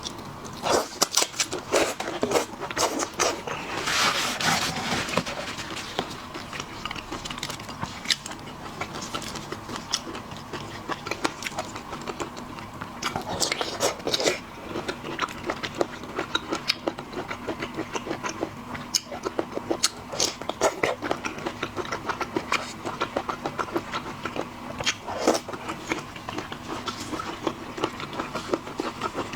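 Close-up eating of seafood: wet chewing and sucking with many small, irregular clicks and crunches.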